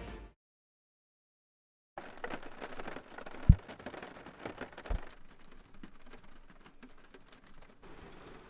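Rain pattering on the roof of a camper van, heard from inside, with two thumps about a second and a half apart.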